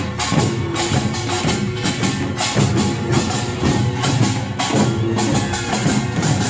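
Korean pungmul percussion band playing a dense rhythm: kkwaenggwari small gongs clanging over janggu hourglass drums and buk barrel drums, with the jing gong ringing underneath.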